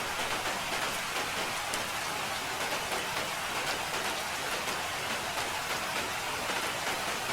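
Steady rain falling, an even hiss with the patter of separate drops.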